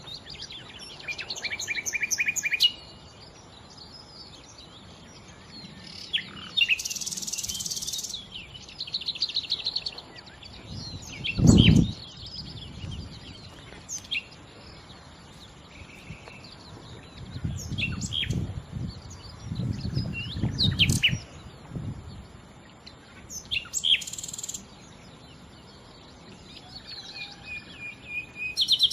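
Nightingale singing in short, varied phrases with rapid trills, separated by pauses. A loud low thump comes about twelve seconds in, and low rumbles follow a few seconds later.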